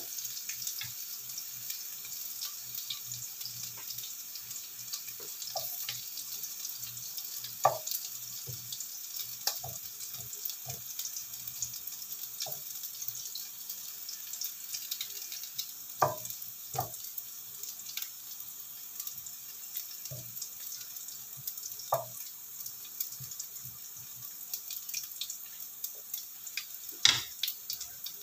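Beef slices frying in oil with chopped garlic and shallot in a frying pan: a steady high sizzle, broken by a handful of sharp knocks as a wooden spatula turns the meat against the pan.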